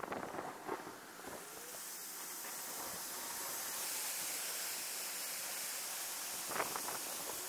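Heavy rain coming down, a steady hiss that swells over the first two seconds and then holds, with a few sharp close taps in the first second and again near the end.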